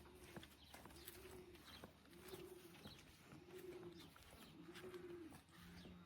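Racing pigeons cooing faintly in a loft, a repeated humped coo about once a second.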